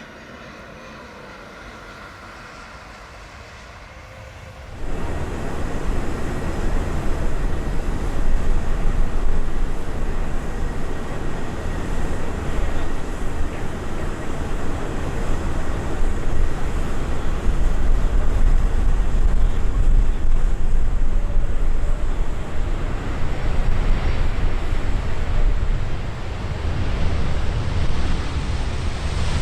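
Jet airliner noise. At first it is faint, with a steady whine. About five seconds in it jumps abruptly to a loud, steady roar with deep rumble and wind buffeting the microphone: a Boeing 777-300ER's GE90 engines as it comes in to land.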